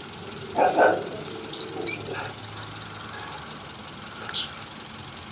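A dog barks twice in quick succession about half a second in, with a few fainter short yaps later, over the steady idle of a Toyota Vios engine that is misfiring.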